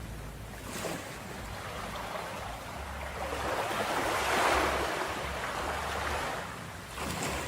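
Ocean waves washing onto a beach. One wave swells to a peak about halfway through and recedes, with short splashes of surf near the start and near the end.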